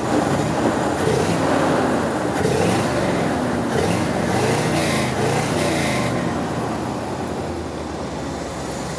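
1974 Chevrolet Corvette V8 engine revved with several quick throttle blips, its pitch rising and falling, then settling back to a steady idle for the last few seconds.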